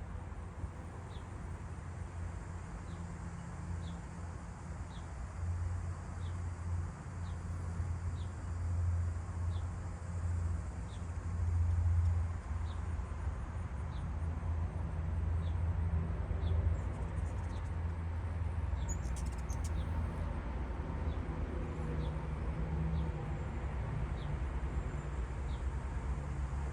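A bird's short high chip note, repeated about once a second, over a steady low rumble.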